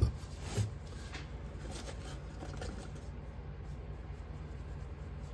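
Handling noises at a sand-casting mold: two soft knocks near the start, then faint rustling and scraping, over a steady low hum.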